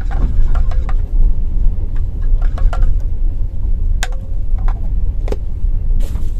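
Steady low rumble of a passenger train carriage under way, with a metal spoon clinking against a steel-rimmed thermo mug as coffee is stirred. A few sharper clicks come about four to five seconds in as the mug's lid is handled.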